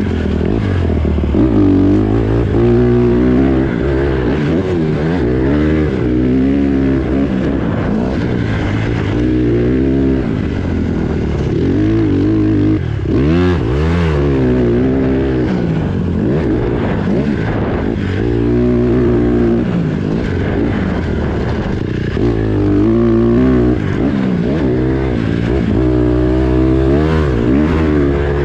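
Honda CRF150RB pit bike's single-cylinder four-stroke engine at full riding, revving up and dropping back again and again.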